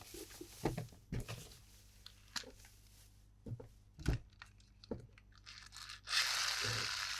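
Toy packaging being handled: scattered light clicks, taps and crinkles, then a steady tearing sound lasting about two seconds near the end.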